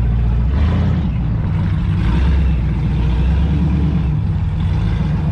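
Car engine running nearby with a deep, steady rumble, swelling briefly about a second in and again about two seconds in.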